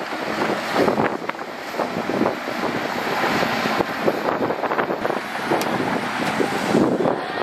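Heavy earthmoving machinery working: a dense, noisy clatter with many small irregular knocks, and wind buffeting the microphone.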